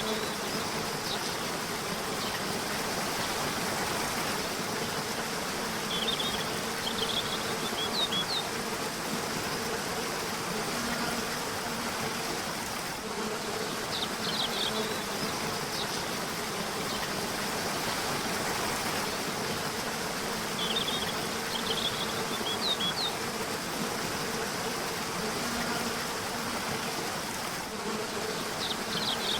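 River water rushing steadily, with a low buzzing hum under it and short bursts of high bird chirps that come back about every seven seconds.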